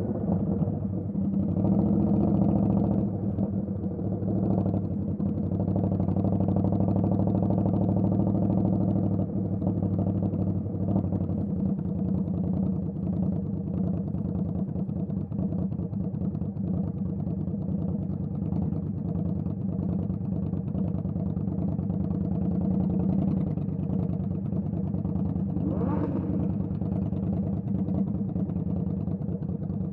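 Indian Scout Bobber's V-twin engine running steadily, a little louder for the first several seconds. Near the end a brief rising whine is heard.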